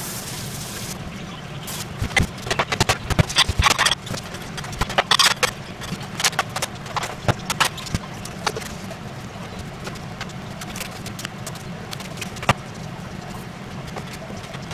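Kitchen clatter: an irregular run of sharp knocks and clicks, like utensils and cookware being handled, over a steady low hum.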